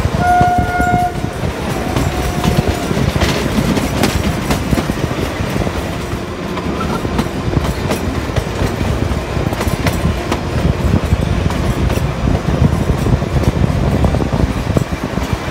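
Kalka–Shimla narrow-gauge toy train heard from an open coach window: the wheels rumble and clatter steadily over the track. A short train horn blast of under a second sounds near the start, followed by a fainter horn note lasting about another second and a half.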